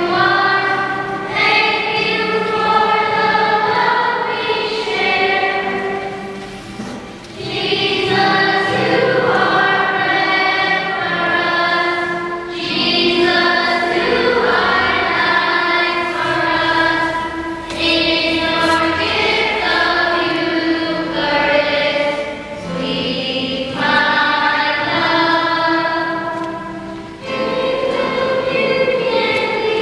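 Choir singing a hymn in phrases, with short pauses for breath about every five seconds.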